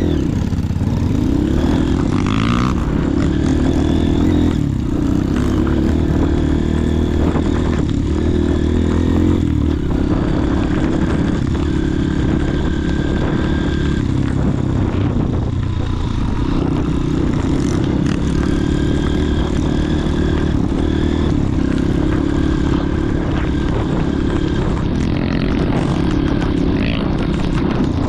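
Motorcycle engine running steadily, its pitch rising and falling a little.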